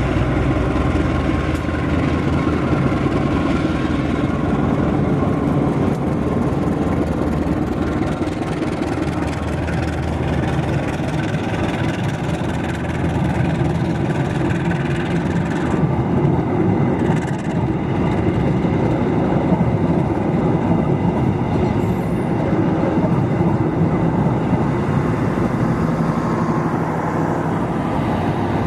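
Diesel-hauled passenger train running by on the rails: a steady, continuous rumble of wheels and locomotive engine.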